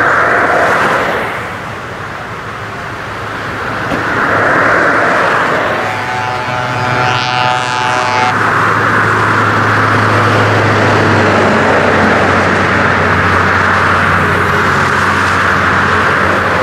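Scania R500 V8 truck engine with straight-piped open exhaust, running loud and being revved, the level dipping briefly and then rising again. Near the middle a pitched tone sounds for about two seconds, and from then on a steady low engine drone holds.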